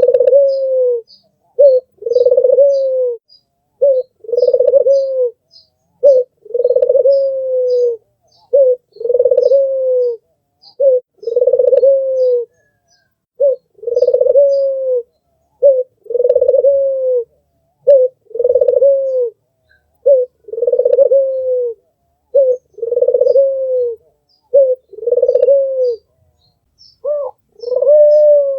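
White (albino) puter dove, a domestic ringneck dove, cooing over and over. Each call is a short note followed by a longer falling coo, about one every two seconds. Faint high chirps of small birds sound behind it.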